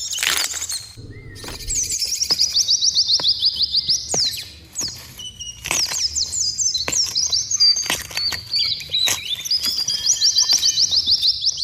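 Songbird singing long, rapid trills of short high notes that slide downward in pitch, each run lasting a few seconds and repeated, with a few sharp clicks between them.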